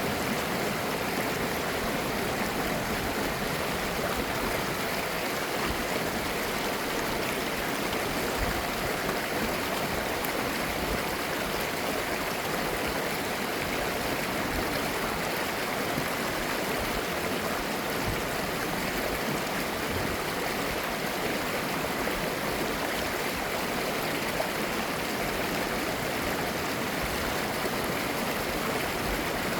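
Clear mountain stream flowing over rocks, a steady babbling and gurgling rush of water.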